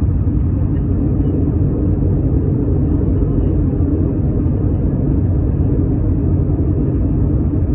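Steady low rumble of engine and airflow noise inside the passenger cabin of an Airbus A321neo, whose engines are CFM LEAP-1A turbofans.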